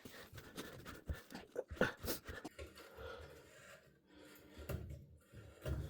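Faint handling of faucet parts: a few small clicks and taps with light rustling.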